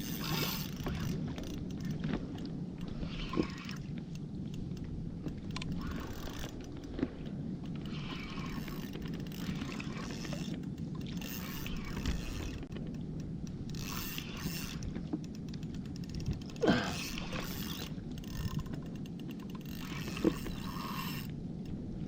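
Water splashing and washing around a kayak's hull on the sea, in irregular surges, with a few sharp knocks on the hull; the loudest knock comes about three-quarters of the way through.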